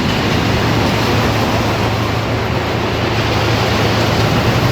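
Amusement-park ride train running steadily, heard from aboard: an even rushing noise with a low, steady hum underneath.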